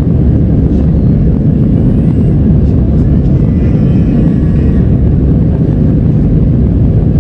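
Jet airliner engines and airflow as a loud, steady, low rumble with no breaks.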